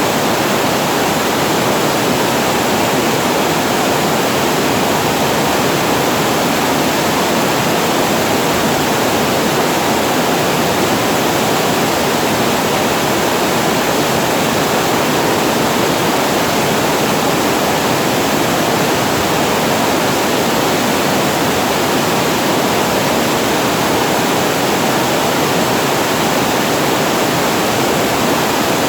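Water pouring over a reservoir weir (a small waterfall), a steady, unbroken rushing.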